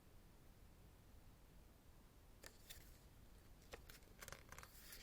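Faint rustles and soft clicks of a CD album's photo book being handled and its thick pages turned by hand, a few brief ones starting about halfway in.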